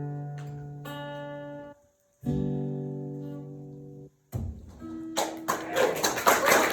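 Acoustic guitar playing its final strummed chords, each left to ring and die away, with short silences between them. About five seconds in, audience clapping starts and grows.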